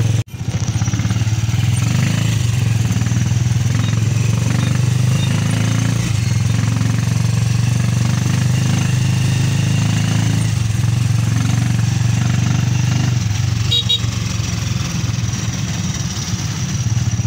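Motorcycle engine of a tricycle running steadily under way, a loud low drone heard from inside the sidecar, with a brief drop-out right at the start.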